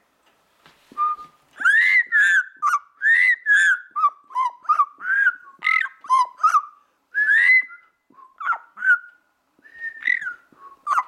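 Pet parrot whistling a rapid string of short notes that slide up and down in pitch, with brief gaps between bursts.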